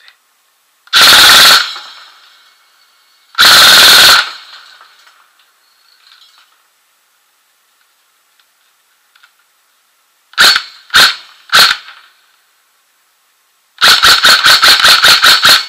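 Airsoft electric gun (AEG) powered by an 11.1 V LiPo battery, firing. It fires two short full-auto bursts, then three single shots about half a second apart, and near the end a rapid string of about eleven shots.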